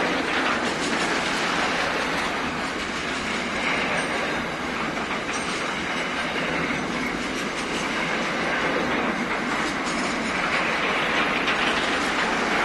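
Container-loaded wagons of an intermodal freight train rolling past close by: a steady din of steel wheels on rail, with scattered clacks from the wheels.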